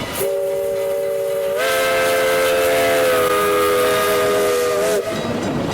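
Steam locomotive whistle, the Little River Railroad #1 0-4-0 tank engine's, blowing one long blast of several tones sounding together for about five seconds, stepping slightly up in pitch after a second and a half and sagging as it cuts off. The train's rolling noise follows at the end.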